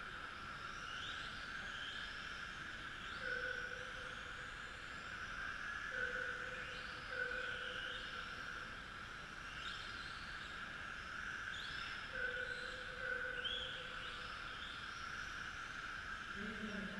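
Electric radio-controlled trucks on TT-01E chassis racing, their motors and gears whining and rising in pitch again and again as the trucks accelerate. A steady high whine runs underneath, with a lower tone coming and going.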